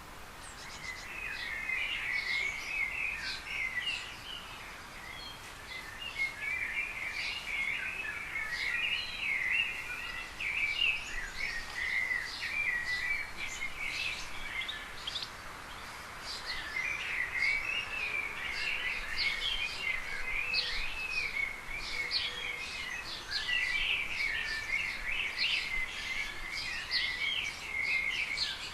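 Small birds twittering and chirping in a dense, continuous chorus, easing off briefly around the middle before picking up again.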